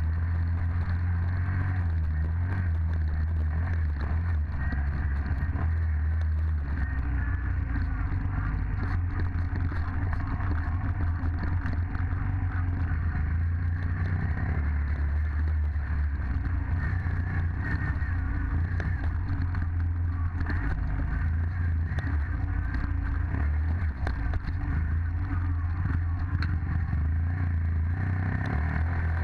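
Dirt bike engine running at a fairly steady pitch, with scattered light rattles and clatter.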